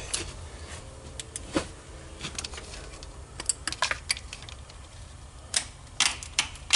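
Irregular metallic clicks and taps of hand tools working the ignition coil's mounting bolt loose, some coming in quick little clusters.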